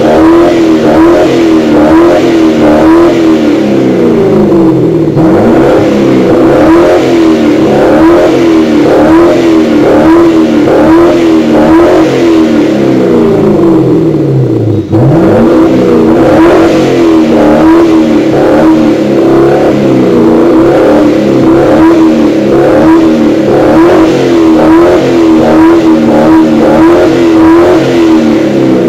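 Maserati 3200 GT's twin-turbo V8 running through Larini sports rear exhaust boxes while parked, revved repeatedly, with its pitch rising and falling over and over. Brief breaks in the pattern come about five and fifteen seconds in.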